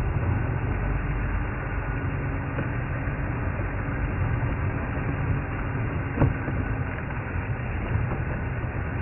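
Safari vehicle's engine running with a steady low rumble in low range, with one short knock about six seconds in.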